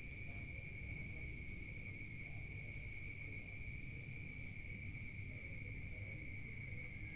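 Night insects, crickets, trilling steadily in a shrill, unbroken chorus over a low background rumble.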